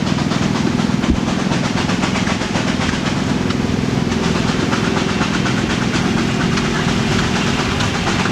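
An old engine running steadily close by, with a fast, even chugging beat over a low hum.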